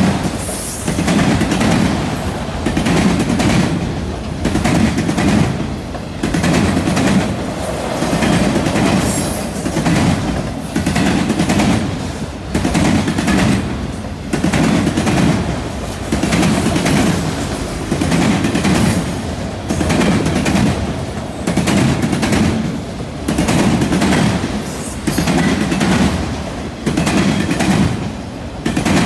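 Freight train of autorack cars rolling past close by, steel wheels clattering over the junction switch and rails in a steady rhythm. The clatter swells about every two seconds as each car's wheel sets pass.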